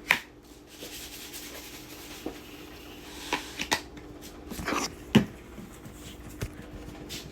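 Scattered clicks, knocks and rustling from things being handled, about seven separate knocks with the sharpest about five seconds in, over a steady low hum.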